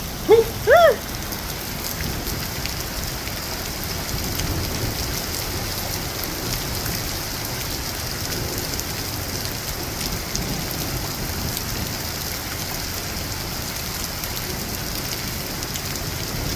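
Steady rain falling, an even hiss with scattered drops ticking on nearby surfaces. A person's short "woo" whoop under a second in.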